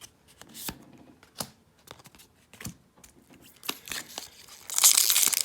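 Trading cards being handled with scattered light clicks and flicks, then, about four and a half seconds in, a foil booster pack wrapper crinkling and tearing loudly.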